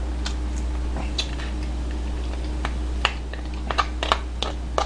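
Chewing a mouthful of soy-marinated raw crab (ganjang gejang) and rice: irregular wet mouth clicks and smacks, with the odd click of the spoon and crab shell being handled, over a steady low hum.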